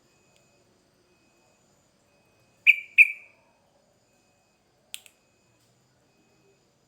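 Sooty-headed bulbul giving two sharp call notes in quick succession about two and a half seconds in, followed about two seconds later by a single short click.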